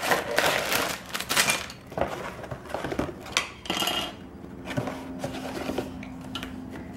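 Lego set box and its packaging being handled: rustling, with plastic pieces rattling and clicking in their bags in short bursts.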